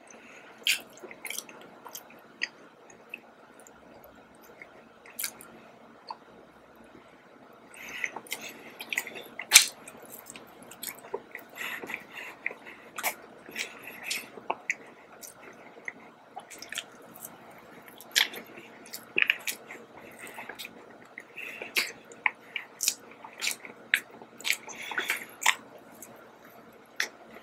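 Close-miked chewing of an iced donut: wet mouth clicks and smacks, sparse at first, then steadier chewing from about a third of the way in, with a bite near the end.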